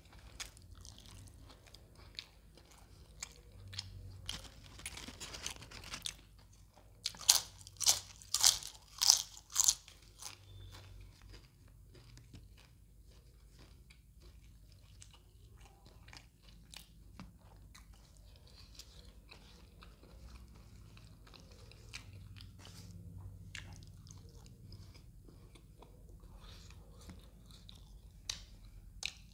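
Close-miked chewing of fish curry and roti, with wet mouth sounds and soft clicks throughout. A run of loud, crisp crunches comes about seven to ten seconds in.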